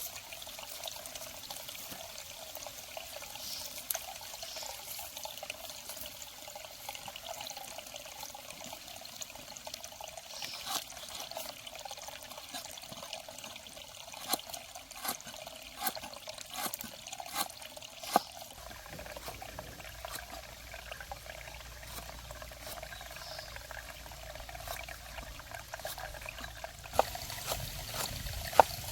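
Water trickling and pouring, with scattered sharp clicks and knocks, a few of them louder around the middle and near the end.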